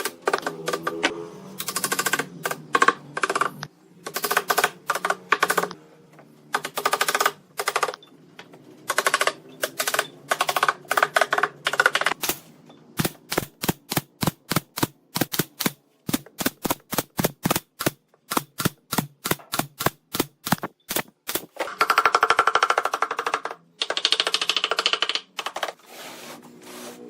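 Rapid sharp clacks from a woodworking tool, first in short clusters, then a long steady run of about two or three clacks a second, with a couple of longer noisy bursts near the end.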